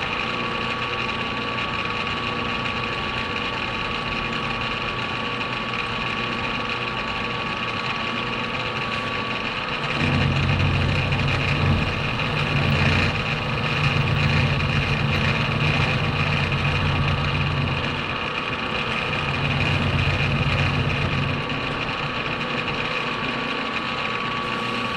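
Metal-cutting machine tool running with a steady whine, taking material off a part to bring it down to width. From about ten seconds in, a heavier low rumble comes in for roughly ten seconds, with a short break partway, as the cut goes under load.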